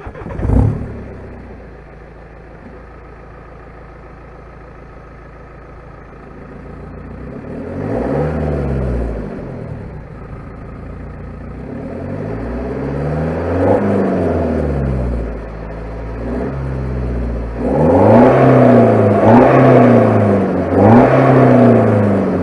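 A BMW 320d's four-cylinder diesel, with its rear muffler deleted and the rest of the exhaust stock, starts with a sudden flare and settles to a steady idle. It is then revved, once briefly and once more slowly, and finally blipped three times in quick succession, the exhaust note rising and falling with each rev.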